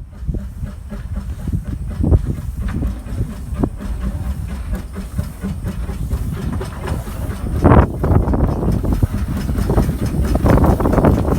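Narrow-gauge steam locomotive and its train running, with louder bursts of steam hiss about two-thirds through and again near the end, over a heavy rumble of wind on the microphone.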